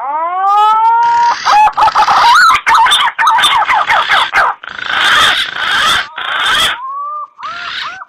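Green pigeon (punai) lure call: loud, overlapping whistled notes that glide up and down, opening with a long rising whistle, cut together from several recordings so the calls start and stop abruptly at the splices.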